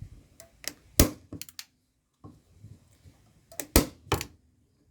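Sharp clicks and knocks of a small plastic piece being fitted onto the back of a wooden plaque. There are two loud knocks, about a second in and again near the end, each among lighter clicks.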